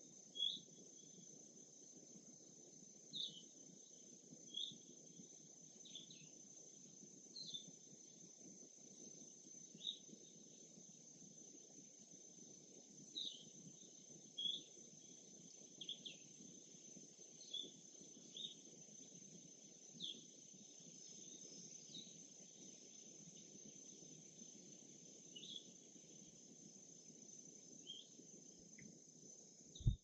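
A songbird giving short, high chirps every second or two over a steady, faint, high-pitched insect drone and a low background hush.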